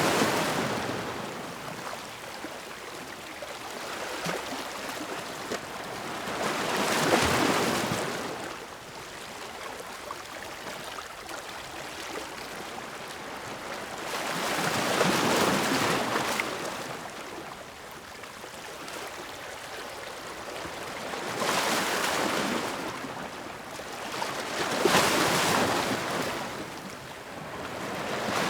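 Ocean waves breaking, each one swelling into a loud rush of surf and fading into a quieter wash. About five break in turn, mostly six to eight seconds apart, with two coming closer together near the end.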